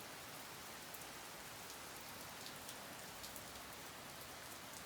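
Steady moderate rain falling, an even hiss with scattered drop ticks; the rain is easing off as a thunderstorm passes.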